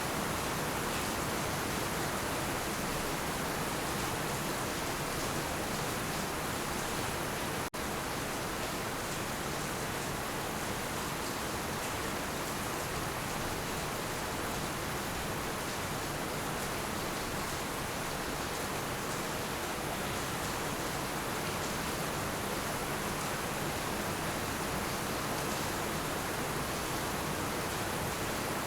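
Heavy rain falling steadily as a dense, even hiss, with no thunder. It drops out for an instant about a quarter of the way through.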